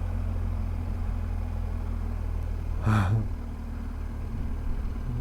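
BMW R 1250 GS Adventure's boxer-twin engine running at a steady speed under way, a low even hum.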